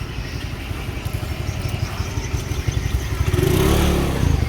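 Street traffic: a vehicle engine runs under a steady low rumble, and a louder engine note comes in about three seconds in and builds toward the end.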